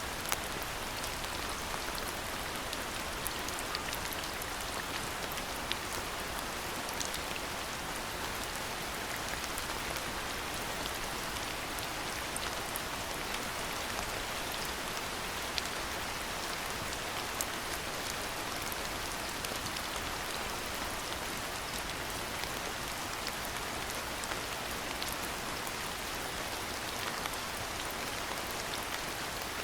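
Steady rainfall, a continuous even hiss with many small, sharp drop ticks landing on surfaces.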